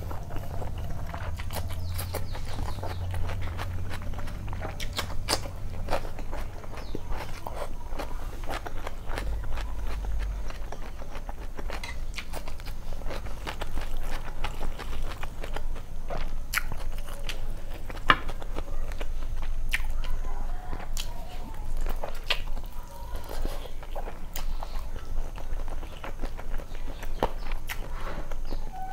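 Close-miked chewing and wet mouth smacking of rice and chicken curry eaten by hand: a steady run of short, sharp clicks and smacks over a low hum.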